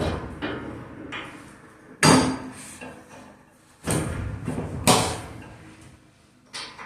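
A heavy steam radiator being wiggled and walked into line with its pipe joint: a few hard knocks, the loudest about two, four and five seconds in, each trailing off over about a second, between softer knocks.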